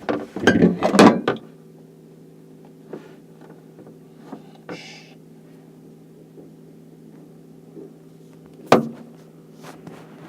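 Loud rustling and knocking for about the first second and a half, then a steady low electrical hum with a few faint ticks and one sharp knock near the end.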